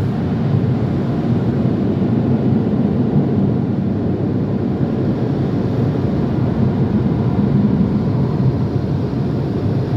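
Automatic car wash air-dryer blowers running, a loud steady rushing noise heard from inside the car.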